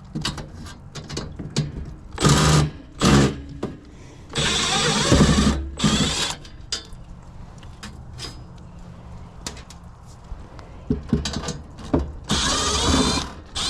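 Cordless power drill/driver run in four short bursts, each about half a second to two seconds long, removing screws, with small clicks and clatter between the runs.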